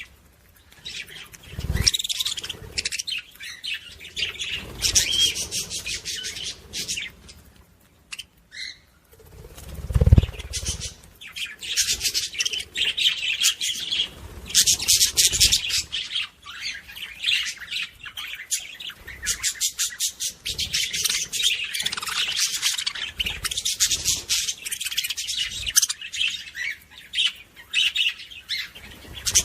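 Several small pet parrots chattering and chirping rapidly and almost without pause, with a brief low thump about ten seconds in.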